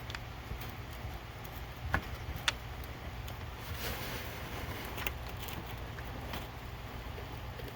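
Small sharp clicks of a pick prying at the plastic clasp of a fuel-injector electrical connector: a click about two seconds in, another half a second later, and one about five seconds in, over a steady low hum.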